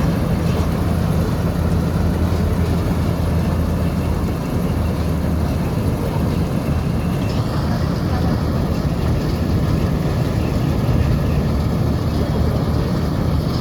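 Heavy farm-machine diesel engine running steadily with a deep drone. The higher part of its sound changes about seven seconds in.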